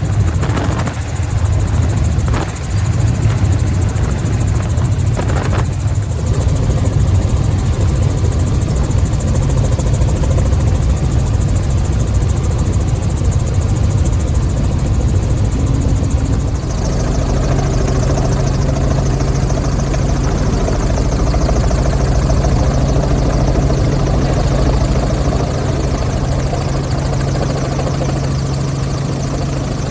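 Robinson R44 helicopter running, with the steady hum of its engine and rotors. There are a few short knocks in the first few seconds, and the sound becomes a steadier, more even hum a little past halfway.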